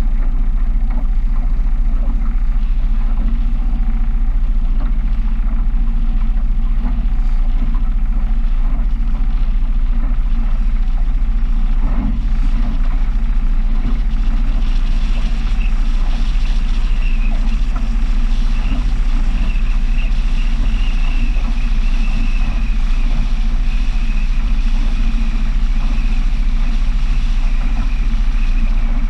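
Small powerboat's engine running steadily under way, with a low rumble. About halfway through, a steady high whine joins it.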